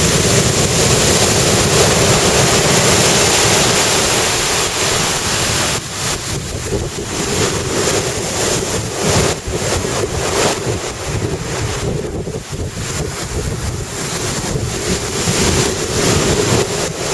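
Big surf breaking and washing up the beach, loudest in the first few seconds, with wind buffeting the microphone.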